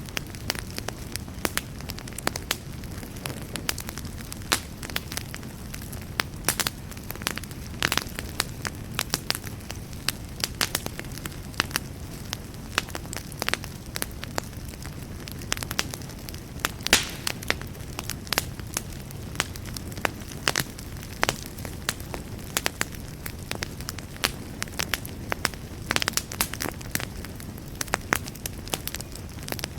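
Wood fire burning in a fireplace: a steady low rumble of flames with frequent irregular crackles and sharp pops, one pop about halfway through louder than the rest.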